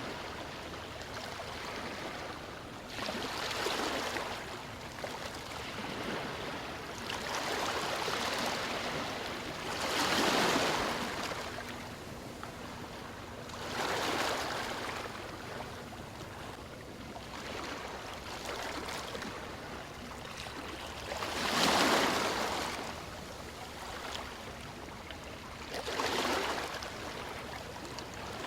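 Ocean surf, waves breaking and washing in as a hiss that swells and falls back every few seconds. The biggest breaks come about ten and twenty-two seconds in.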